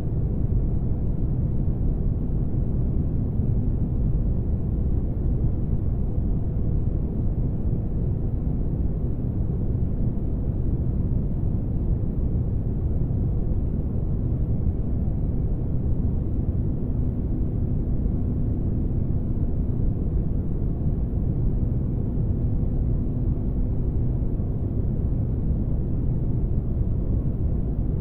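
Spaceship ambience for sleep: a steady deep rumble of low noise with a faint constant hum, unchanging throughout.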